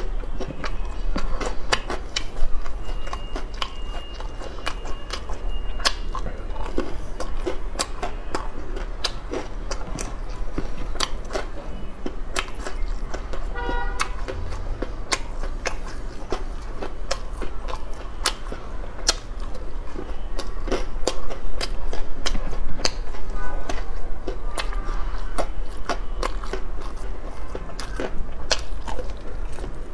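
Close-miked chewing and crunching of a crispy fried snack, with many sharp crackling bites.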